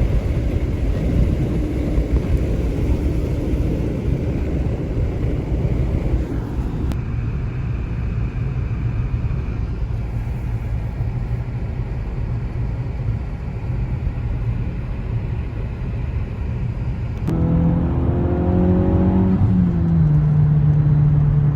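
Motor vehicle running, a steady low rumble of engine and road noise. Near the end a pitched engine note climbs, then settles into a steady low hum.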